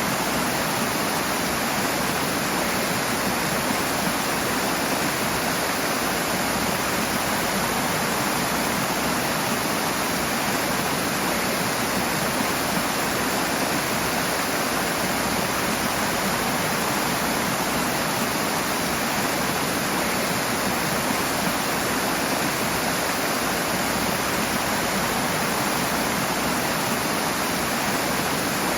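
Rushing water, a steady full roar of fast-flowing water like a stream or small waterfall, unchanging throughout.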